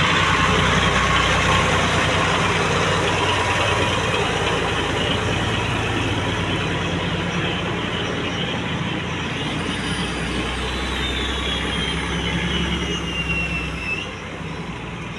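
A vehicle engine running steadily with a broad, even noise and a low rumble, and a faint high tone sliding down in pitch near the end.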